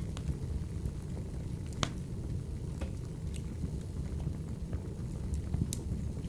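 Wood fire burning in a wood-burning stove: a steady low rumble of the flames with scattered sharp crackles and pops, the loudest about two seconds in.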